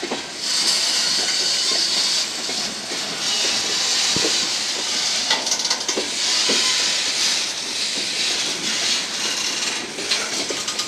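Freight cars rolling slowly past at a crawl: a hiss that swells and eases, with scattered clicks and knocks from the wheels and couplings.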